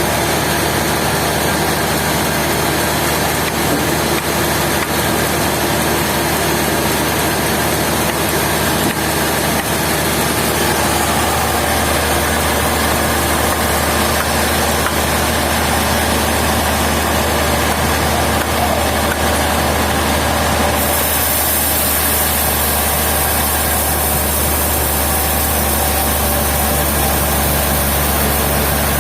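Sawmill machinery running steadily with a low engine hum. The sound changes about two-thirds of the way through, when a high hiss joins in.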